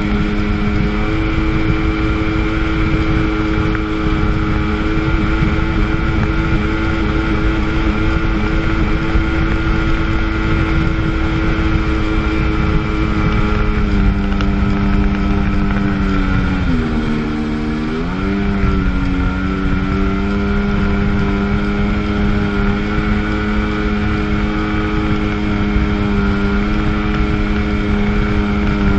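1997 Sea-Doo GTS jet ski's 720 two-stroke twin running at a steady cruising pitch over water hiss. About halfway through the revs dip briefly and climb back, and they drop again right at the end.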